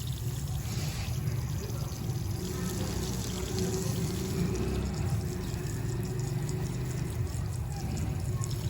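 Water from a garden hose pouring and splashing steadily onto the garden beds.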